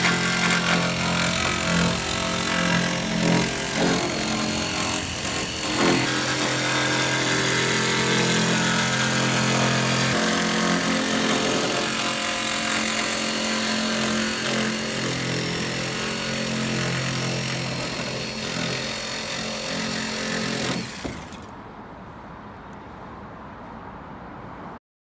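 A machine running steadily with a pitched hum, stopping abruptly about 21 seconds in and leaving a fainter hum.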